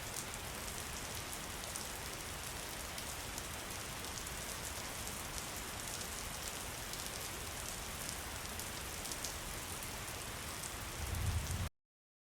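Steady rain falling, with many sharp individual drop patters over an even hiss. A low rumble swells about eleven seconds in, then the sound cuts off suddenly into silence.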